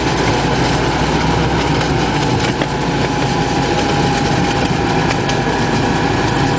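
Park ride train running, heard from a passenger seat: a steady rumble of engine and wheels on the rails, with a thin whine held over it.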